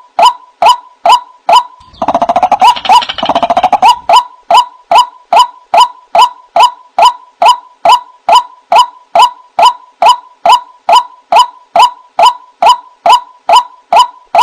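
White-breasted waterhen (ruak-ruak) calls repeated in an even rhythm, about two short rising notes a second, played as a bird-catcher's lure call. About two seconds in, a faster burst of overlapping calls joins in for roughly two seconds.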